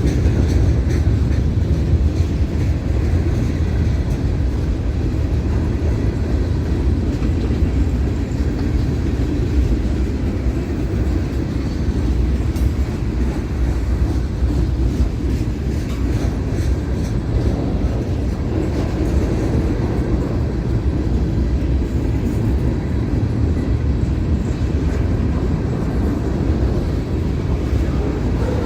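A train rolling past, its railcars making a steady, loud rumble.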